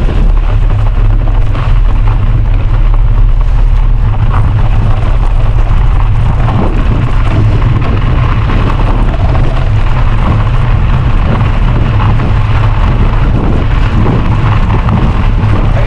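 Wind buffeting the microphone of a camera on a moving bicycle: a loud, steady low rumble with a fainter hiss above it.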